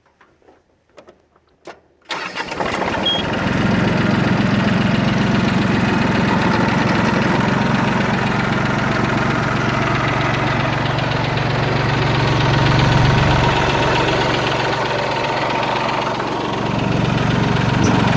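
Mitsubishi MT205D compact tractor's three-cylinder diesel engine starting about two seconds in, after a few faint clicks, then running steadily at idle.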